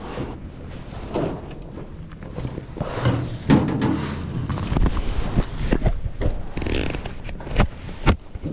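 Irregular knocks, clicks and rustling scrapes of people moving about and handling things, with a few sharper knocks in the second half.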